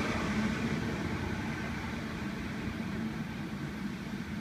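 Sydney Trains Millennium electric double-deck train pulling away, its rumble fading steadily as it draws off down the line, with a steady low hum under it.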